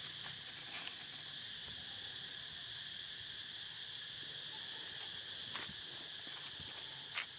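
Steady high-pitched chorus of insects trilling, with a few brief clicks, the sharpest near the end.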